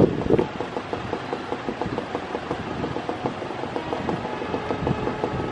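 Steady rumble with dense, irregular clicking and rattling from a train approaching along the track.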